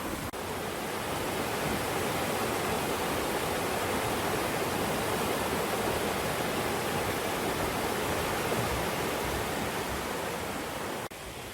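Steady rushing of a clear mountain valley stream flowing over rocks, dropping briefly and going on a little quieter near the end.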